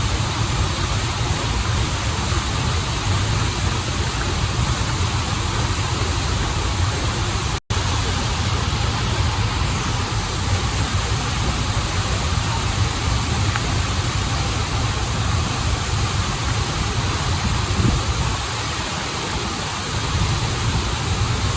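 Running water of a stream and waterfall, a steady full rushing hiss. It cuts out for a split second about a third of the way in.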